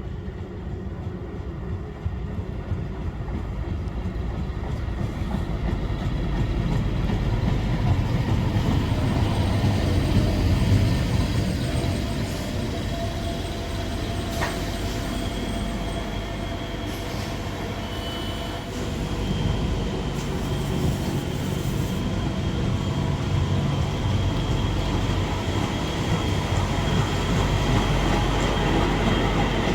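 A train running on the rails: a steady low rumble that swells and eases, with a faint whine and a single sharp click about halfway through.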